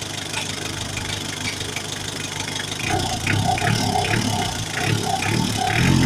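Mitsubishi 4M40 four-cylinder diesel engine running, idling steadily at first. About three seconds in it gets louder, with a rhythmic pulsing of roughly three beats a second.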